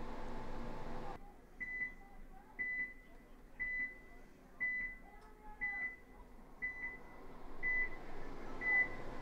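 Steady background cuts off abruptly about a second in; then a high electronic beep repeats about once a second, eight times, like a timer or countdown beeper.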